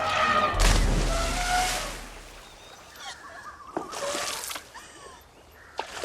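Water splashing in gushes, the biggest about half a second in and another around four seconds: water sprayed from an elephant's trunk. Faint orchestral film score runs underneath.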